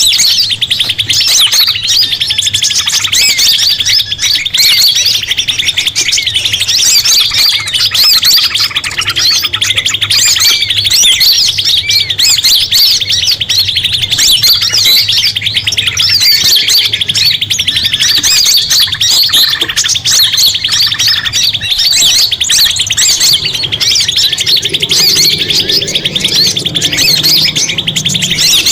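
Dense, unbroken chirping and trilling of small songbirds, several voices overlapping at high pitch, as in a mixed bird-lure call recording. A faint low hum lies underneath.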